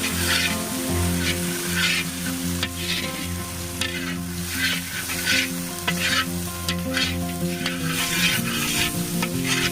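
Masala with chili and turmeric powder sizzling in hot oil in a pan, stirred with a spoon in repeated scraping strokes, over background music with steady held tones.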